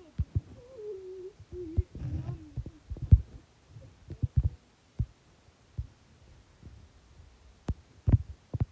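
Scattered low thumps and knocks, the loudest about three seconds in and near the end. A wavering hummed tone runs over the first two and a half seconds.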